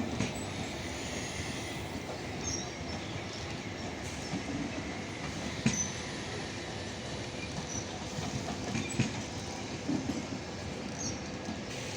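Express passenger train running on the rails: a steady rumble of wheels on track, with a few sharp clanks and brief faint wheel squeals.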